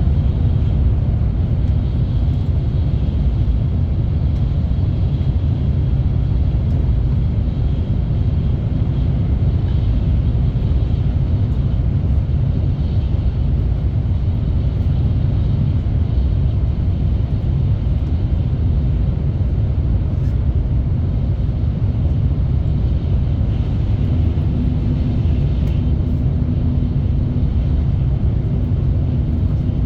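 Steady low rumble of a train running along the track, with a faint steady hum joining in near the end.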